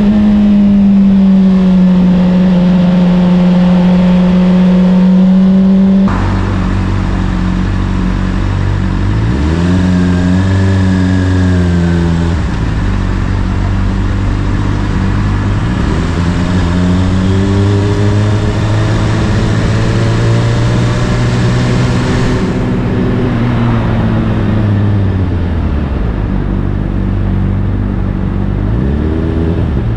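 Honda CBR600RR's inline-four engine with an Akrapovic exhaust, heard while riding. A steady high-revving note drops suddenly about six seconds in, then the revs rise and fall several times as the bike accelerates and slows.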